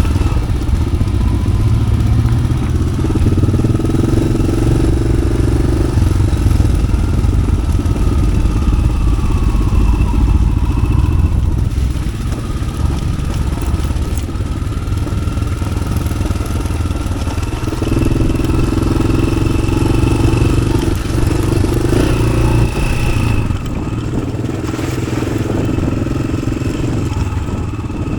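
Yamaha XT600's air-cooled single-cylinder four-stroke engine, breathing through an aftermarket Arrow exhaust, running under changing throttle while ridden off-road. It pulls harder twice, a few seconds in and again about two-thirds through, and eases off near the end.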